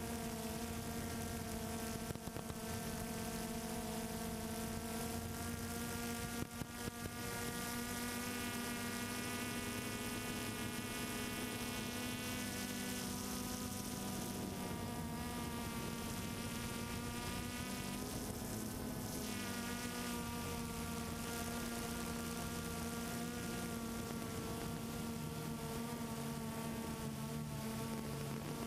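Multirotor camera drone's motors and propellers, heard from the drone itself: a steady, buzzing whine made of several stacked tones, its pitch shifting slightly now and then.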